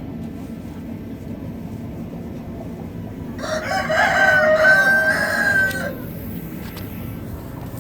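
A rooster crows once, starting about three and a half seconds in and lasting about two and a half seconds, over a steady low background rumble.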